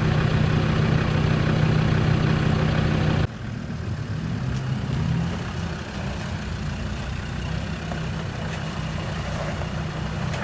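A vehicle engine running steadily at low revs. About three seconds in the sound drops suddenly, and a quieter engine sound carries on.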